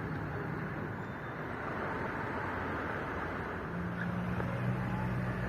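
Steady outdoor rumble of motor traffic, with a vehicle engine's low steady hum coming in a little over halfway through.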